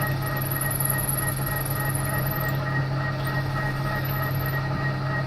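TOS milling machine running steadily under power with a drill bit in the spindle, drilling out a snapped exhaust stud. A thin high squeal comes and goes over the machine's hum.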